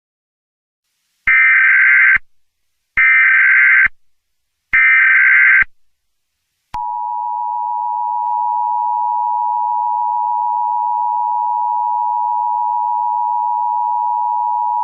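Emergency Alert System tones. First the SAME header: three short bursts of screeching digital data tones, each just under a second long and about a second and a half apart. About a second later comes the EAS two-tone attention signal, a steady harsh tone held for about eight seconds, heralding a severe thunderstorm warning.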